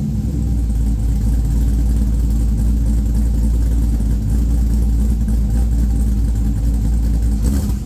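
Newly swapped LQ4 6.0-litre V8 in a 1985 Pontiac Trans Am idling steadily with a deep, even rumble. The engine shuts off at the very end.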